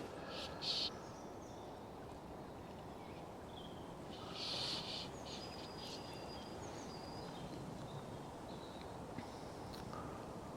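Steady gusty wind noise by a river, with short high bird chirps now and then and a couple of brief rustles, one just after the start and one about four seconds in.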